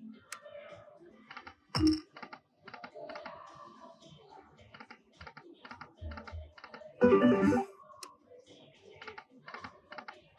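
Lightning Link slot machine sound effects: a run of rapid, irregular clicking ticks as the reels spin. There is a brief loud burst just before two seconds in and a short musical jingle about seven seconds in.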